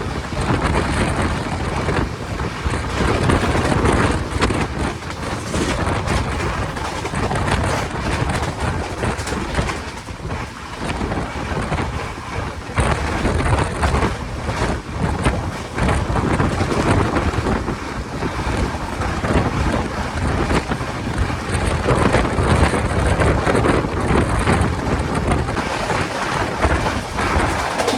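Express passenger train running at speed, with a continuous rush of wheel and rail noise and heavy wind buffeting on the microphone.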